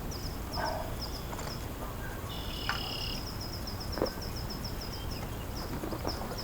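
Outdoor wetland ambience: high chirps in quick pairs, repeating evenly a couple of times a second over a steady low rumble. A short held whistle-like call comes a little after two seconds, and a single knock at about four seconds.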